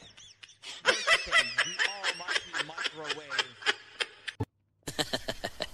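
A person giggling, a quick run of short snickering bursts lasting about three seconds, with a short break near the end.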